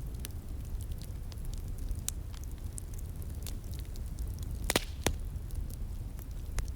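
Wood fire crackling with scattered sharp pops, two louder pops close together about three-quarters of the way through, over the steady rush of a flowing stream.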